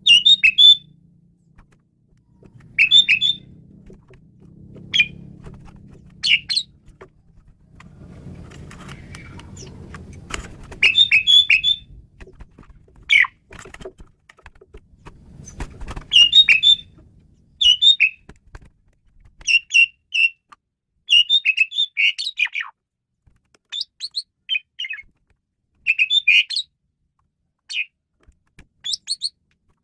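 Asian pied starling (jalak suren) singing: short bursts of sharp, chattering whistled notes, repeated every second or two. A low rumble sits beneath them for the first half and fades out after about sixteen seconds.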